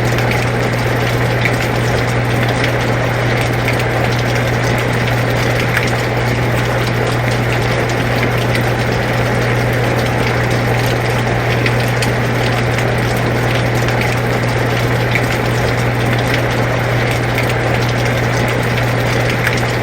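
Air conditioner running with a steady low hum, mixed with steady rain falling, with faint scattered drop ticks.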